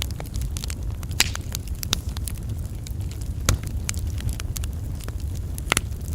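Wood logs burning on an open campfire: a steady low rumble of flame with frequent irregular crackles and pops, a few sharper pops standing out about one, three and a half and near six seconds in.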